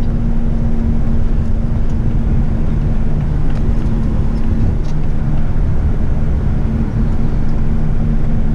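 Diesel engine of an eight-wheeler twin-steer heavy rigid truck running steadily on the road, heard from inside the cab as a constant low drone with tyre and road noise.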